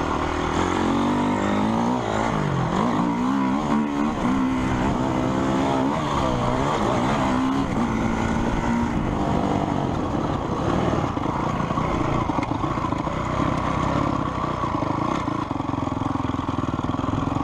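Motocross motorcycle engines revving, the pitch repeatedly climbing and dropping with throttle and gear changes, then settling into a steadier drone after about nine seconds.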